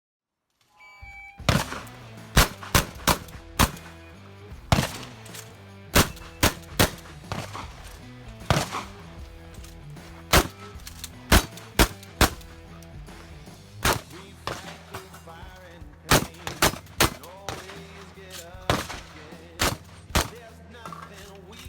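Shotgun shots fired in quick, irregular strings, some two or three a second, over background music with a steady bass line.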